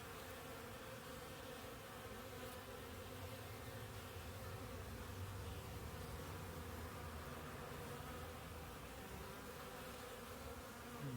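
Honeybees buzzing steadily at a hive entrance narrowed to its smallest opening by an entrance reducer, the colony crowding at the cramped entrance.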